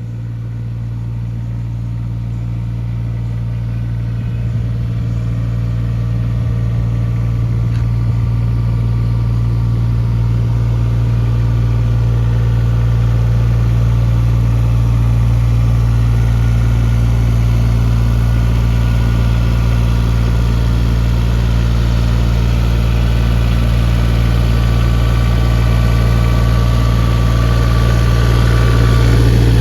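Diesel engine of a Volvo EC18E mini excavator running steadily, slowly growing louder, a little more so near the end.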